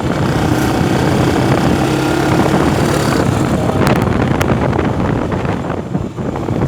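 A vehicle's engine running steadily while moving, with wind noise on the microphone. Two sharp clicks come about four seconds in.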